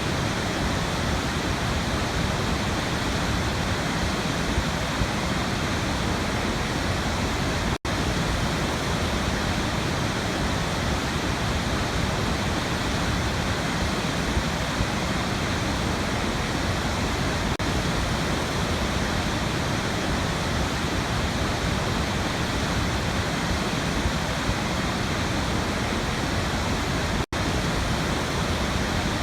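Waterfall: a steady, even rush of falling water that briefly drops out twice.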